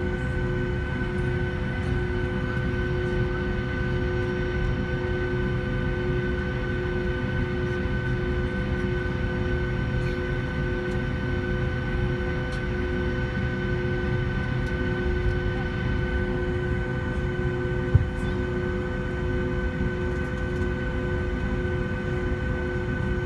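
Inside the cabin of a Boeing 757 on the ground: the jet engines' steady whine at low power over a low rumble of the airliner rolling along the taxiway. A single sharp click sounds once late on.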